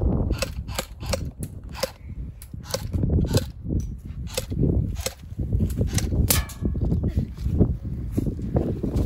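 Airsoft guns firing single shots at an irregular pace, a dozen or more sharp snaps, over a steady low rumble.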